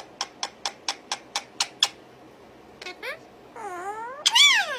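A pet animal calling: a quick run of about nine short, sharp chirps, about four a second, then a few meow-like calls that rise and fall in pitch, the loudest near the end.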